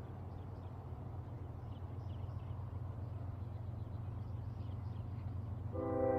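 Steady low rumble with faint high chirps; near the end a train horn starts sounding a sustained chord of several steady notes, louder than anything before it.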